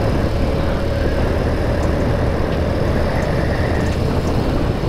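BMW R65's 650 cc boxer twin running steadily while the motorcycle is ridden along a road, under a constant rumble of wind and road noise.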